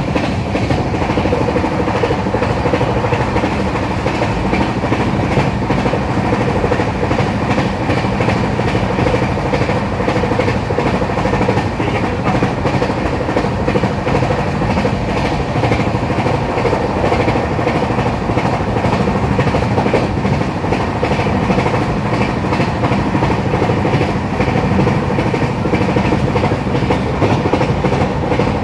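LHB passenger coach running at high speed, over 130 km/h: a loud, steady rumble of wheels on the rails with a steady hum running through it, heard through an open coach doorway.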